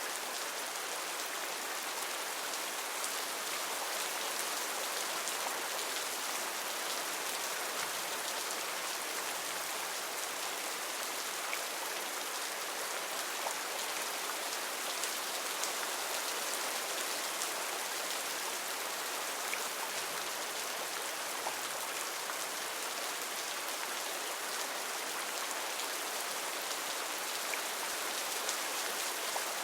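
Heavy rain falling steadily: an even hiss with scattered single drops ticking through it.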